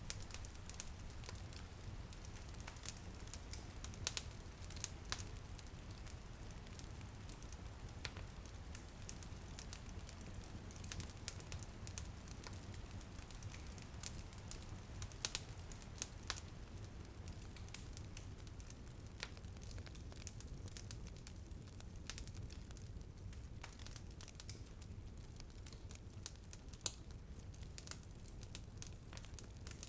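Wood fire crackling in a fireplace: irregular sharp pops and snaps over a steady low rumble, the pops thinning out in the second half.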